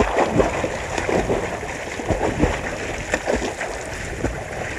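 Water splashing irregularly in a quick run of uneven splashes.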